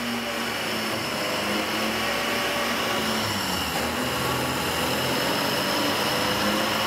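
Car engine running steadily at a raised idle with no carburetor, its gasoline dripped from an IV bag into a plate on the intake manifold. The engine note comes with a lot of hiss and grows slowly a little louder.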